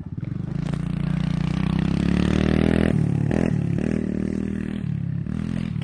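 Dirt bike engine revving hard, rising in pitch and getting louder over the first three seconds. The throttle is briefly cut about three seconds in, then the engine picks up again and runs on a little quieter.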